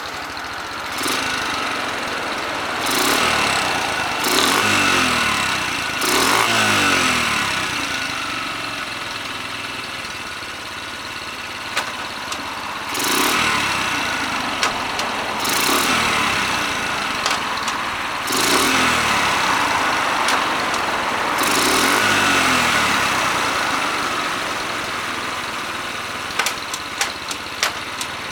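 Honda Super Cub 50's small single-cylinder four-stroke engine idling and being revved about eight times, each rev rising and then dropping back to idle. A few sharp clicks near the end.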